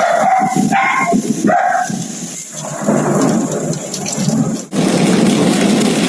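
Heavy hail and rain pelting down in strong wind, a dense, loud hiss and clatter. There are a few short pitched sounds in the first two seconds and an abrupt change in the sound about three quarters of the way through.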